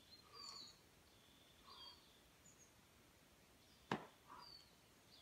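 Faint bird calls: short falling chirps repeating every second or so. One sharp click about four seconds in.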